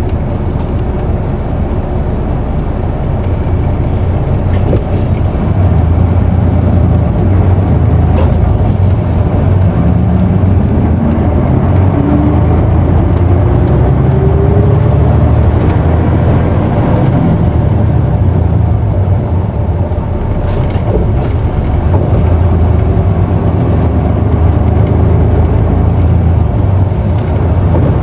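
Isuzu Erga city bus's inline-six diesel engine heard from inside the cabin, pulling under acceleration. Its note climbs steadily from about ten seconds in to about sixteen seconds, eases briefly around twenty seconds, then pulls hard again.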